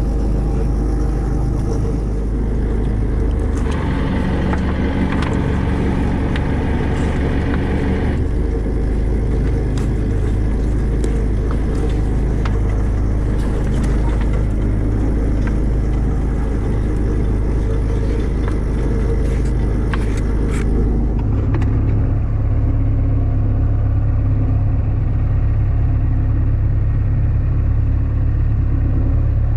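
Boat engine running steadily, a loud low rumble. An extra rattling noise joins from about four to eight seconds in, and the sound changes about twenty seconds in to a deeper, steadier hum.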